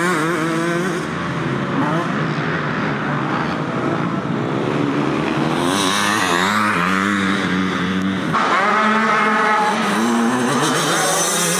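Several motocross dirt bike engines racing on the track, their pitch rising and falling with throttle and gear changes as they go by. About eight seconds in, a louder bike comes in with its pitch climbing.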